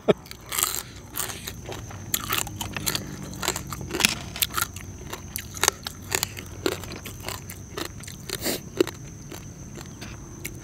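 Close-up eating: someone biting into and chewing crunchy food, an irregular series of sharp, crisp crunches with short pauses between them.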